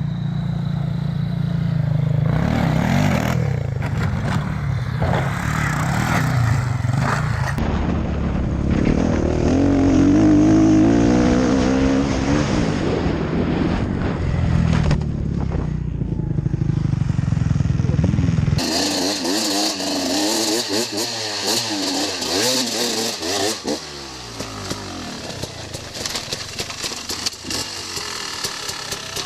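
Dirt bike engines running and revving, the pitch rising and falling with the throttle. About two-thirds of the way through, the sound cuts abruptly to a different bike with a lighter, hissier engine note.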